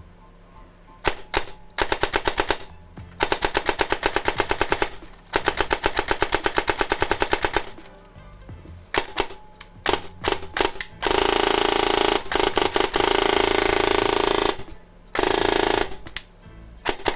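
Krytac Kriss Vector airsoft electric gun with a DSG gearbox firing: a few single shots, short bursts, and two long full-auto bursts of rapid clicking. Then a long, very fast burst in which the shots blur into one continuous buzz, another short burst, and a few single shots near the end.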